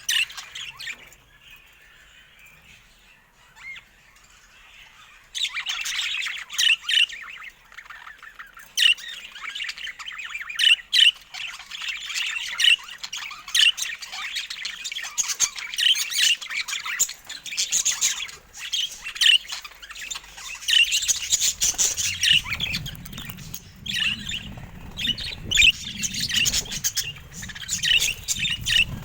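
Several budgerigars chattering and warbling with sharp chirps and squawks, sparse at first and dense and busy from about five seconds in. A low rumble joins in during the last third.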